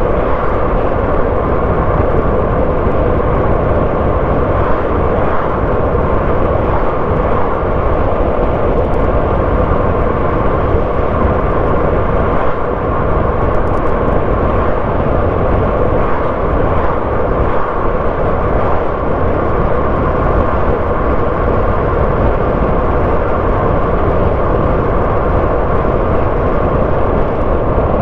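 A car driving at a steady pace: continuous engine and tyre-on-road noise.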